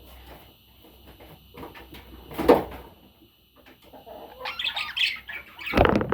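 Pet budgies chirping, with rustling, flapping and two louder short bursts, one about two and a half seconds in and one near the end.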